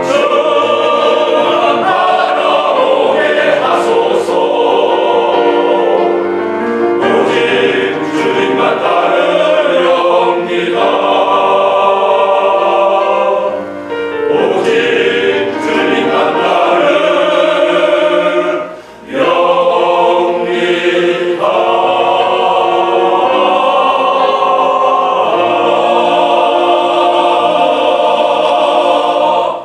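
A church elders' vocal ensemble singing a congratulatory hymn in harmony, with sustained chords, a short break about two-thirds of the way through, and the final chord cutting off at the end.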